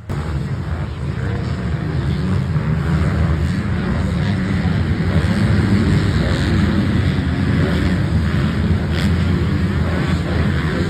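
A pack of dirt bikes on a motocross track at full throttle, their engines running loud and steady, building over the first couple of seconds.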